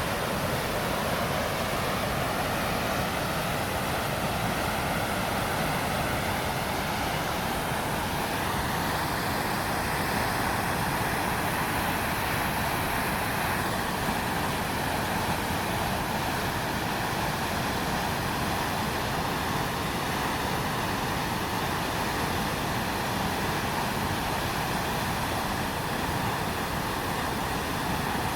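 A swollen, muddy river in flood after heavy rain, rushing steadily with a constant, even noise. A faint higher sound rides over it for a few seconds about a third of the way in.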